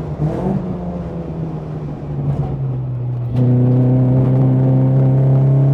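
BMW 116i race car's four-cylinder engine, running softer and unsteady while braking into a corner, then coming back on full throttle a little over three seconds in with a loud, steady pull out of the corner.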